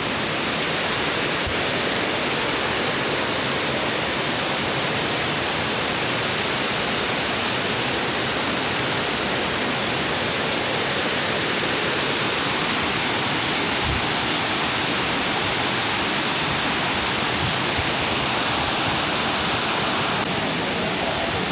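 Steady, loud rushing of a waterfall, the Leuk river dropping through the town.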